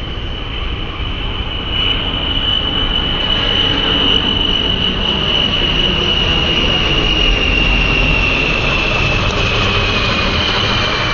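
Arriving airliner's engines running loud and steady, with a high whine over a broad rush that drifts slowly down in pitch as the plane passes.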